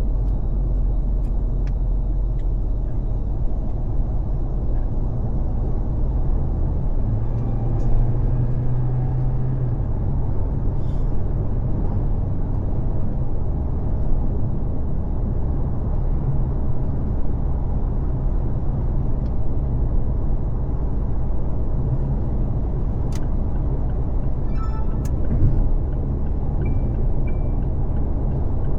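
Car driving at freeway speed: a steady low rumble of tyre and road noise with wind, with a few faint sharp clicks in the second half.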